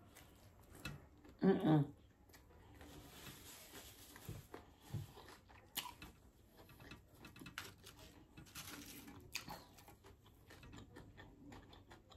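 Quiet chewing with soft mouth clicks and small scattered ticks, and a brief voiced hum about one and a half seconds in, the loudest sound.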